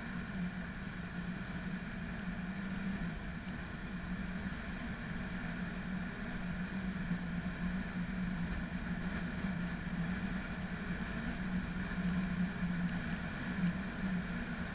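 Motorcycle engine running steadily while riding, a constant hum with wind and road noise over it.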